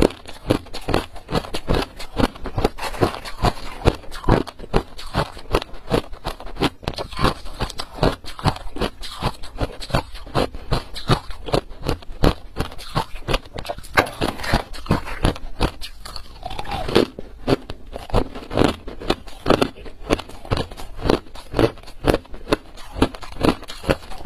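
Ice being bitten and chewed close to the microphone: a continuous run of sharp, crisp crunches, several a second.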